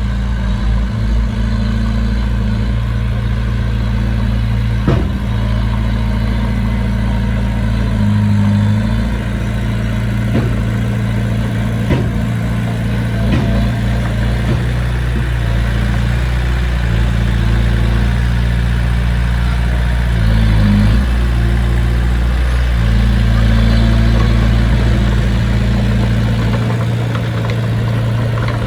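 Heavy earthmoving machine's diesel engine running steadily at low revs, with a few sharp clanks in the first half.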